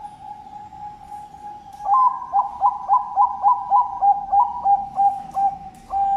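Zebra dove (Bangkok-line perkutut) cooing: a long drawn note, then a quick string of about a dozen short coos at roughly three a second, ending on a held note.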